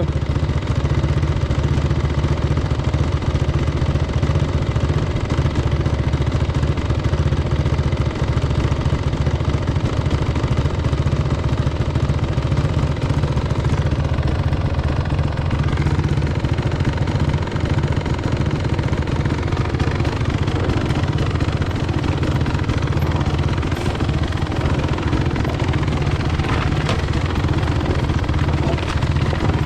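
250 cc enduro dirt bike engine running steadily, with no sharp revving.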